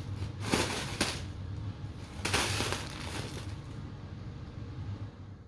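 Kitten scrabbling and sliding across the floor: a few short scuffing noises, with the longest and loudest about two seconds in, then fading.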